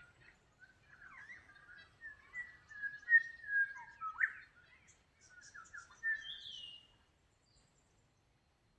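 A songbird singing a warbling phrase of short whistled notes that glide up and down in pitch, loudest about three to four seconds in and trailing off about seven seconds in.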